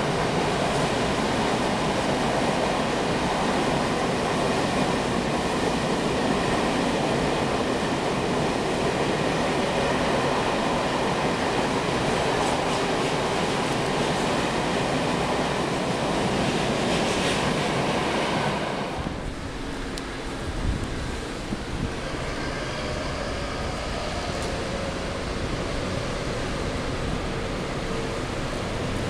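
A train running past on the tracks, a dense steady rumble that stops fairly abruptly about two-thirds of the way through. After that comes a quieter background with a few faint steady tones and a short low knock.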